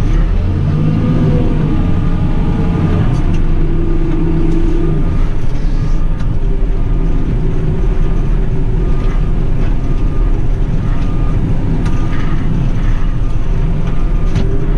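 JCB 310S telehandler's diesel engine running steadily, its pitch rising and falling about a second in as the machine works.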